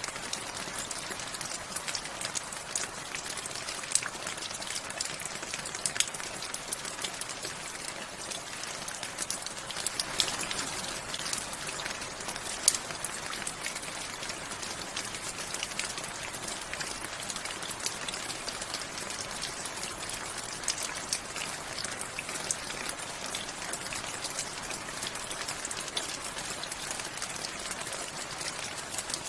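Steady rain falling, an even hiss with many close individual drops ticking on a hard surface, a few louder drips standing out.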